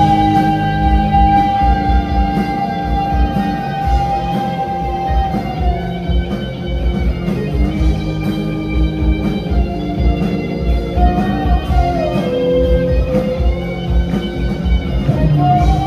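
Live rock band playing an instrumental passage: electric guitar holding long sustained lead notes over bass and a steady drum beat, with one note sliding down in pitch about twelve seconds in.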